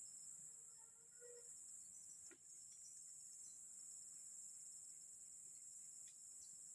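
Steady, faint, high-pitched chorus of forest insects such as crickets, with a couple of faint clicks.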